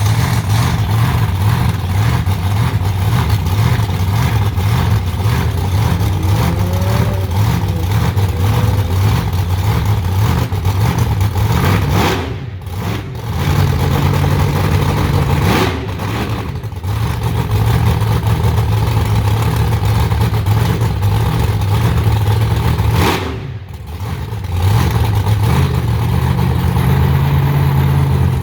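Monster truck's engine running loud and hard, with the throttle briefly let off three times in the second half.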